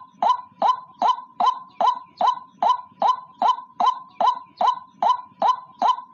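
White-breasted waterhen (ruak-ruak) calling: a fast, even series of short, harsh notes, about two and a half a second, each falling away at the end.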